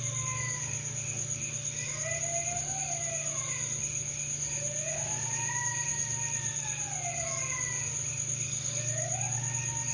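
A drawn-out wailing cry, heard as a woman weeping, in about three long wails that each rise and fall in pitch. Crickets chirp steadily and high-pitched underneath, over a low steady hum.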